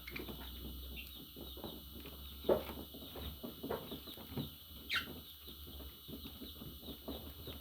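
Birds chattering with a steady run of quick high chirps, broken by a few louder short calls, one about two and a half seconds in and a falling call about five seconds in.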